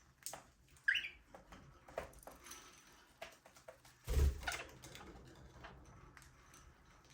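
Budgerigars in an aviary: scattered small clicks, scratches and a short chirp about a second in, with one louder rustling thump about four seconds in.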